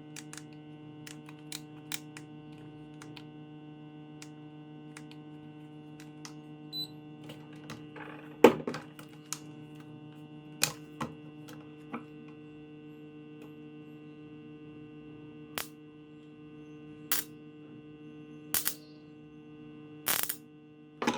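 Steady electrical hum from the microwave-oven-transformer spot welder, with scattered sharp clicks and snaps over it; the loudest snap comes about eight seconds in.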